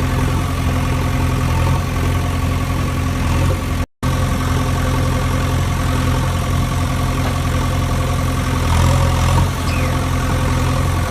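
Engine idling steadily, breaking off completely for a split second about four seconds in before running on.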